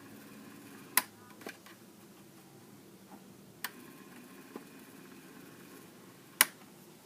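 A few sharp clicks over a faint steady hum: a loud one about a second in, softer ones after it, and another loud one near the end.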